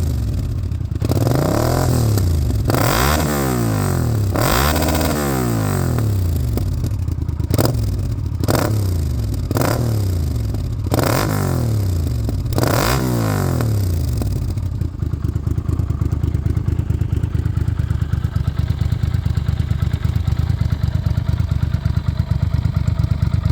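Yamaha TDM 850 parallel-twin engine breathing through an aftermarket Chinese exhaust, revved in a string of throttle blips that each rise and fall, then settling to a steady idle about fourteen seconds in.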